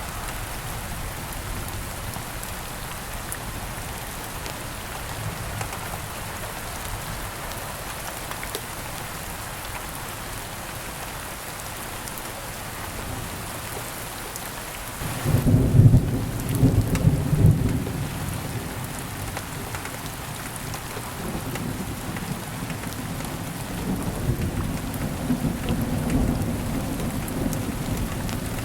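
Steady rain falling, with a roll of thunder that breaks in about halfway, loudest for two or three seconds, then rumbles on more quietly to the end.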